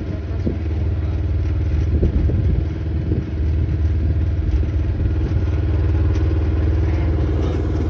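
A motor vehicle's engine running steadily with a low, even rumble.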